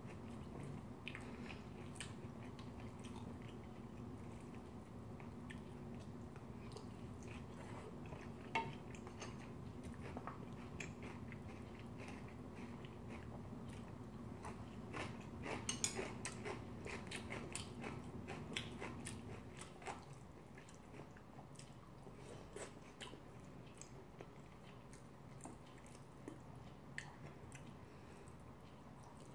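Close-miked chewing and wet mouth sounds of a person eating curry rice, with many small smacks and clicks, busiest a little past the middle. There is a sharp click about eight seconds in, and a low steady hum in the background stops about two-thirds of the way through.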